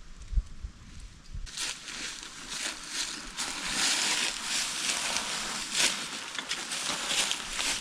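Tent and sleeping-gear fabric rustling and crinkling as it is handled, after a soft thump near the start.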